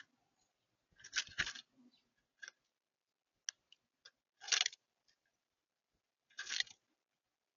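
Birds pecking and cracking seed on a feeder close to the microphone: three short bursts of crunchy clicking, about a second in, about halfway and near the end, with a few lone ticks between.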